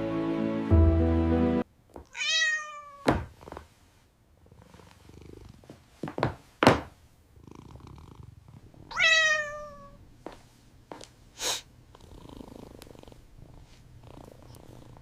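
Background music that cuts off suddenly about a second and a half in. Then a cat meows twice, once about 2 seconds in and again about 9 seconds in, with a few short knocks between the meows and a low, steady purr under the second half.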